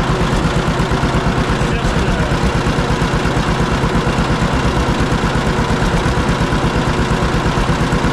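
John Deere 4520 tractor's diesel engine idling steadily with an even, rapid throb.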